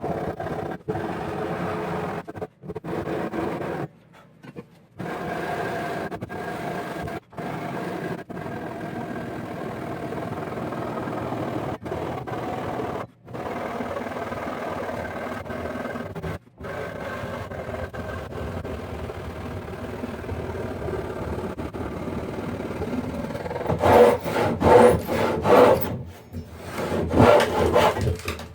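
Japanese ryoba handsaw cutting through the wooden boards of an old chest in a continuous run of rasping strokes. The strokes grow louder and more separate near the end as the cut comes through.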